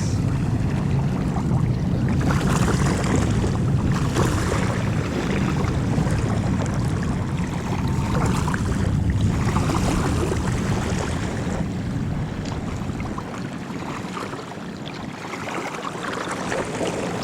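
Small boat underway on open water: a steady rush of wind and water over a low hum, easing off slightly near the end.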